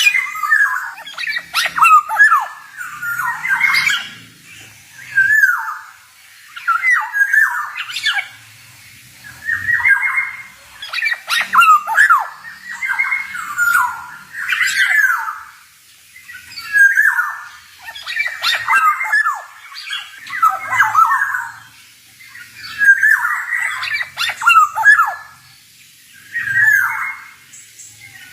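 Male black-naped oriole singing in short repeated phrases of curving whistled notes mixed with harsh, rasping notes, about one phrase every two seconds with brief pauses between.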